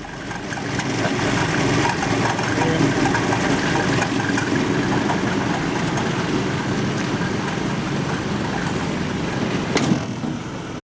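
Car engine running, getting louder over the first two seconds and then holding steady, with one sharp click near the end.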